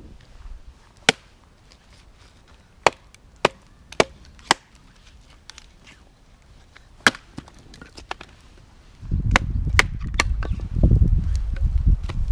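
Firewood being chopped: six sharp wooden chops at uneven intervals over about seven seconds. A loud low rumbling noise takes over for the last few seconds.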